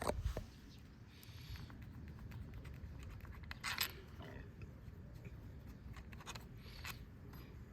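Workshop handling noise as engine parts are taken apart: a sharp knock at the start, a brief scrape about four seconds in, and scattered light clicks of tools and metal parts being moved.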